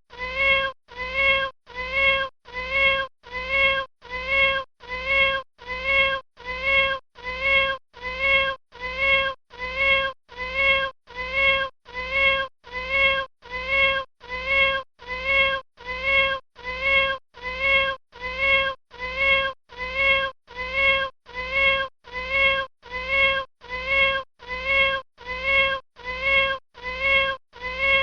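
Kitten mewing: the same short, high mew repeated over and over at a perfectly even pace, a little over one a second, like a looped call.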